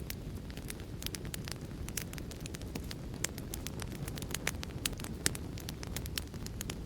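Wood fire crackling: a steady low rumble under irregular sharp pops and snaps, a few louder ones in the second half.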